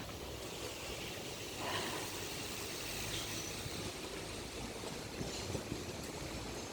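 Steady rushing outdoor background noise, with a brief louder swell about two seconds in.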